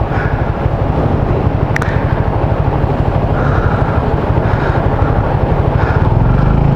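Motorcycle engine running with a steady, rapid pulsing beat.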